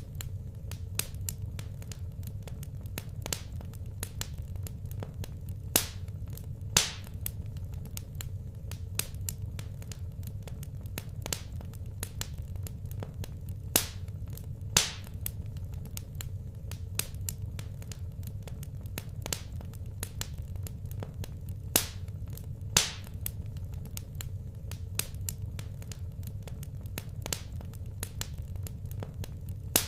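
Wood fire in a fireplace crackling, with sharp irregular pops over a steady low rumble. The louder pops come in pairs about a second apart, repeating every eight seconds or so.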